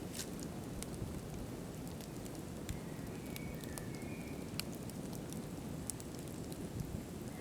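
Wood campfire burning: a steady low rush of flame with scattered sharp crackles and pops. A faint high whistle sounds briefly about three to four seconds in.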